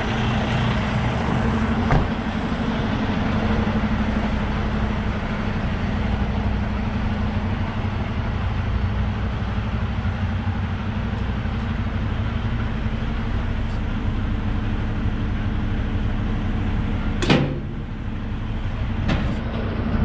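Semi truck's diesel engine idling steadily, with a small click about two seconds in and one sharp knock near the end, followed by a fainter one.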